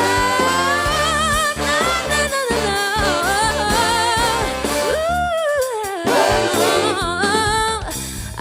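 Lead singer's ad-lib vocal run with vibrato over a live band's bass and drums: a rising held note at the start, wavering runs, and a swooping fall about five seconds in.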